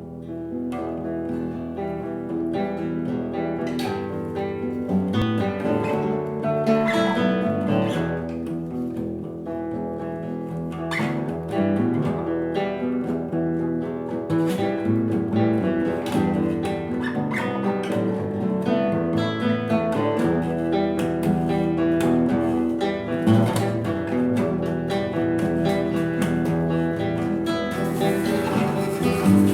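Live music led by a picked guitar playing a slow, shifting run of notes, with a brighter wash of sound coming in near the end.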